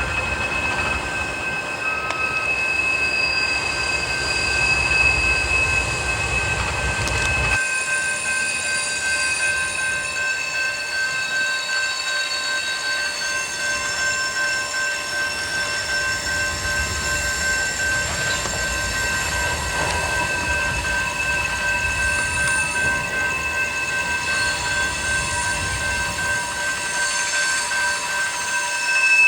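Freight train rolling past with a steady high-pitched wheel squeal, several tones held at once over the rumble of the cars. The low rumble drops away suddenly about eight seconds in while the squeal goes on.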